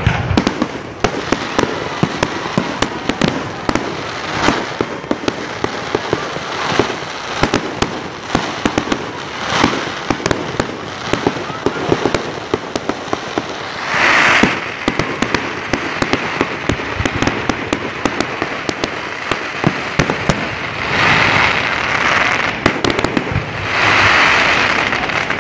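Fireworks display: a rapid, continuous run of aerial shell bursts and crackling bangs, with louder stretches about halfway through and twice near the end.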